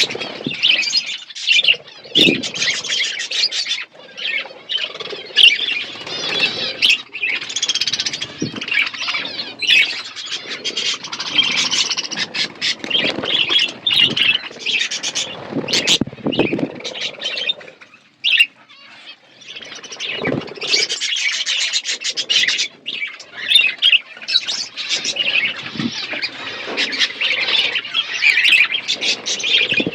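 A group of budgerigars chattering and warbling continuously in a dense stream of chirps, with a short lull about two-thirds of the way through.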